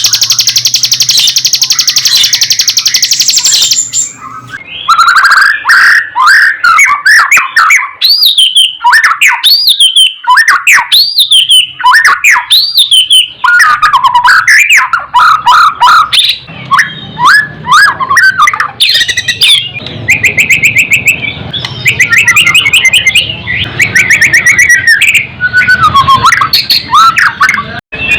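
White-rumped shama singing: a fast buzzy chatter for the first few seconds, then a long run of loud, varied whistled phrases sliding up and down, with rapid rattling trills near the end.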